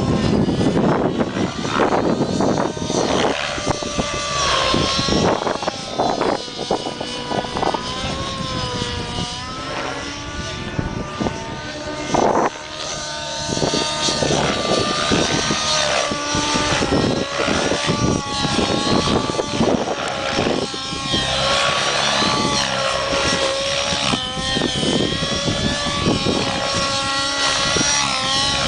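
Align T-Rex 700 nitro RC helicopter in flight, its glow engine and rotor whining and rising and falling in pitch again and again as it is flown through 3D manoeuvres.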